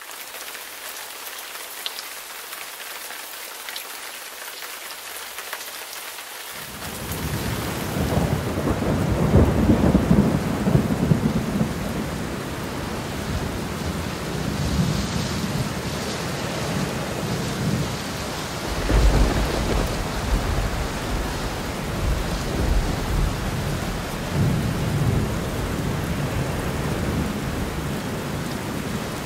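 Thunderstorm: steady rain hiss. About six seconds in, rolling thunder starts rumbling and runs on. It is loudest around a third of the way through and swells again twice later.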